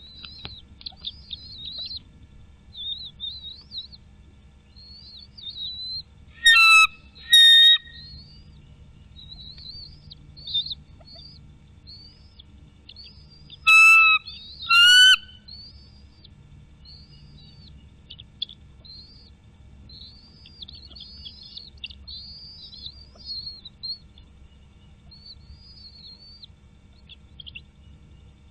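Wild birds calling: a steady stream of small high chirps and trills, broken twice by a pair of much louder, clear, ringing calls.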